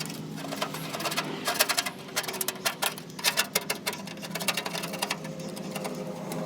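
Quick, irregular scrubbing strokes on the metal casing, coming in bursts of several sharp scrapes a second.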